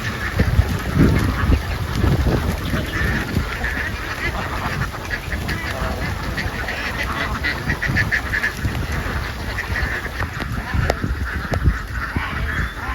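A large flock of ducks quacking all at once in a dense, continuous chorus, over a steady low rumble.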